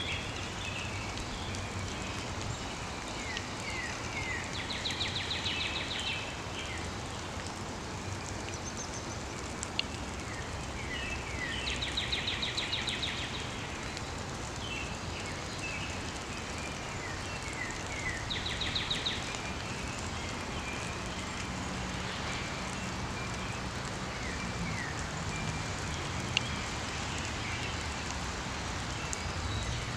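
A songbird singing the same short song over and over, about every seven seconds: a few quick down-slurred notes followed by a fast trill. Under it runs a steady outdoor hiss, with two faint clicks.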